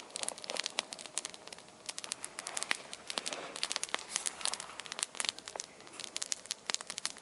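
Wood campfire of small twigs and branches crackling, with many irregular sharp snaps and pops.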